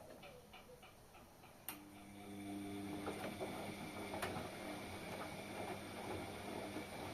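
Washing machine: a faint run of light ticks, then a sharp click about 1.7 seconds in, after which a steady mechanical hum starts up with occasional clicks over it.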